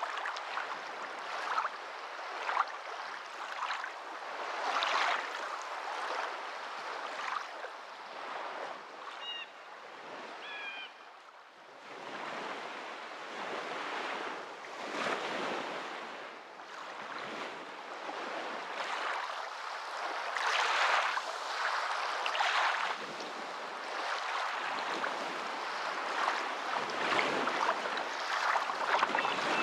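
Water waves washing in, a steady rush that swells and falls back every few seconds, with a dip about a third of the way in.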